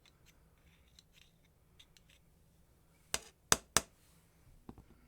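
Small metal tool and grinder gearbox parts being handled: light scattered ticks, then three sharp clacks in quick succession about three seconds in, and a couple of softer knocks near the end.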